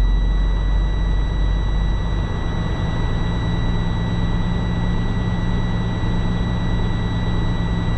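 Semi tractor's diesel engine idling, heard from inside the cab, its low note shifting about two seconds in. Over it sounds a steady high tone, typical of the low-air warning buzzer while the air pressure is still building, which stops just after.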